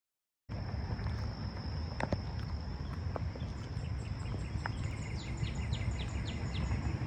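Outdoor trail ambience that cuts in about half a second in: a low rumble under a steady high-pitched insect drone. A bird calls a quick series of about six falling notes about five seconds in.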